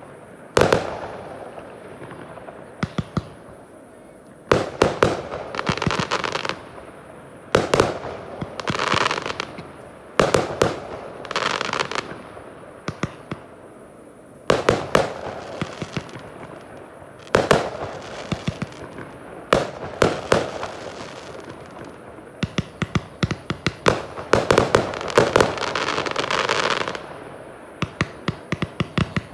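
Fireworks going off: sharp bangs from shells bursting every few seconds, several of them followed by stretches of crackling. Near the end comes a dense run of quick bangs and crackle.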